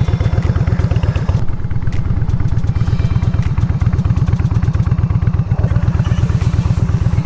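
Yamaha Bolt's V-twin motorcycle engine running while riding, heard as a loud, steady, rapid low pulsing mixed with wind rumble on the bike-mounted microphone.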